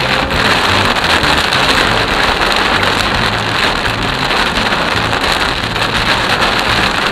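Heavy downpour hitting a car's windshield and roof, heard from inside the moving car as a dense, steady hiss of rain.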